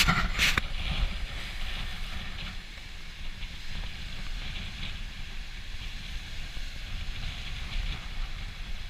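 Strong wind gusting over the microphone in a low, unsteady rumble, with waves washing and splashing against the boat launch as a hiss over it, and a short burst of noise about half a second in.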